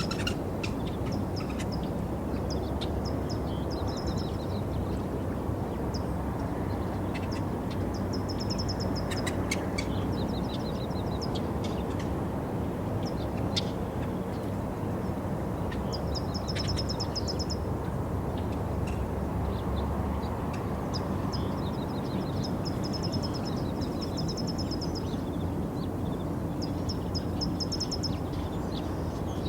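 Small birds singing short, rapid trills again and again, every few seconds, over a steady low rumble of outdoor background noise.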